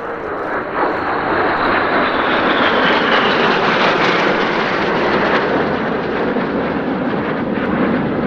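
Red Arrows' BAE Hawk T1 jets flying past in formation, a steady jet roar with a whine that falls in pitch over the first few seconds as they go by.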